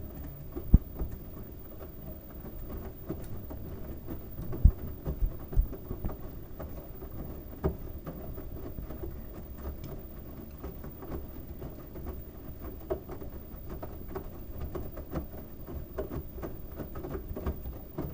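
LG washing machine running with a load of wet towels: a steady low rumble with irregular thumps and clicks as the load tumbles in the drum, the loudest thumps in the first eight seconds.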